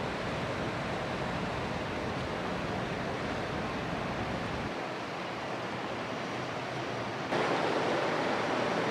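Steady rushing noise of Rhine water washing against the bank, with wind on the microphone. About seven seconds in it jumps abruptly louder and brighter.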